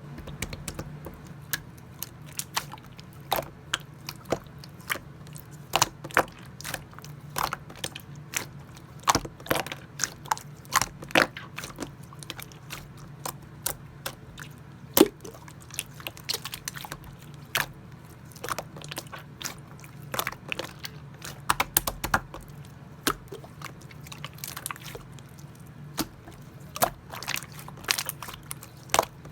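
Clear slime worked by hand, making irregular sticky clicks and small pops, several a second, over a steady low hum.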